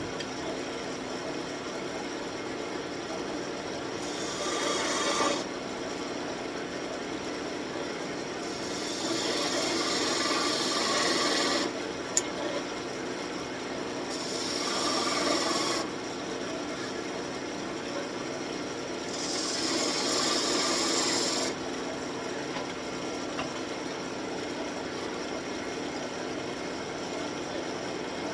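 Wood lathe running steadily while a turning tool cuts into a spinning birch wand blank, four separate passes of scraping as details are cut into the handle.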